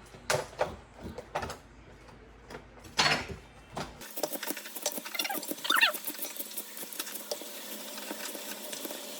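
Utensil mixing food in a bowl: a few separate knocks at first, then from about four seconds in a fast run of small clicking and scraping.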